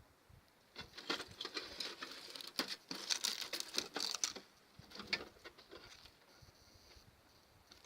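Trash crackling in a dense run of quick clicks for about three seconds, then a few more crackles around five seconds in.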